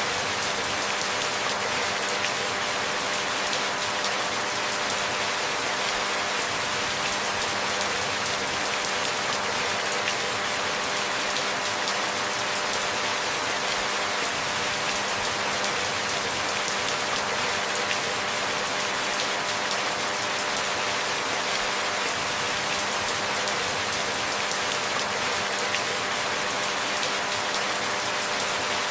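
Steady, even rainfall: a continuous hiss of falling rain with no changes or breaks, with a faint steady hum beneath it.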